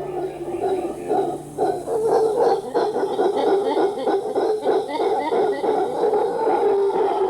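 A chorus of hooting animal calls in the rain forest, many rapid pulsed calls overlapping, growing denser and louder about two seconds in.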